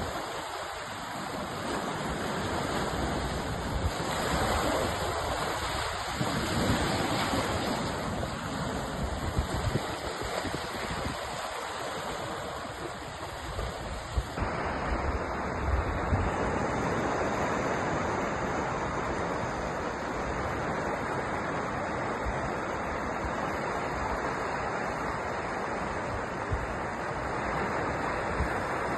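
Sea surf washing on a shore, a steady rush of water noise that swells and eases. About halfway through the sound changes abruptly, as at a cut to another stretch of recording.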